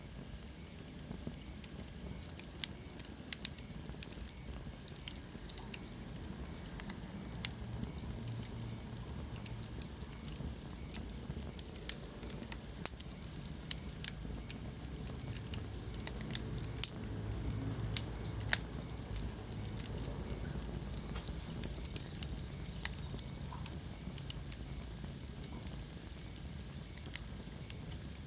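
Wood fire crackling in a fireplace: a steady low rumble of flames with irregular sharp pops and snaps, a handful of them louder than the rest.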